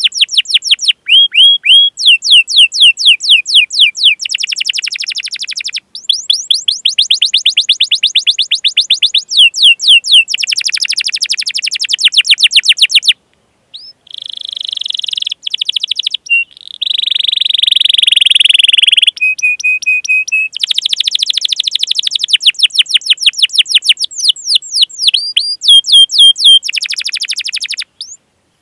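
Domestic canary singing a long song of fast repeated sweeping chirps (cuit-cuit) and rapid rolled trills. A buzzy, steadier roll comes about halfway through, and the song is broken by a few short pauses.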